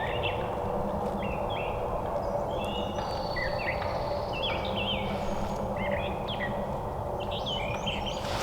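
Small songbirds chirping and singing in short, repeated phrases of quick gliding notes, over a steady low hum of outdoor background noise.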